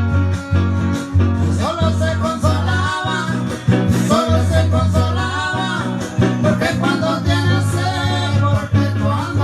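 A trio of Mexican musicians plays with strings and a strong bass line, and a sung melody comes in about a second and a half in.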